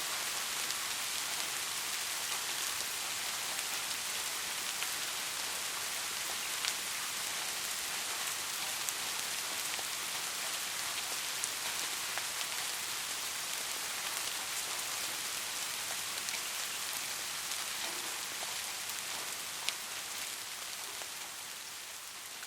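Steady rain falling: a dense, even hiss with a few sharper drop ticks now and then, growing quieter near the end.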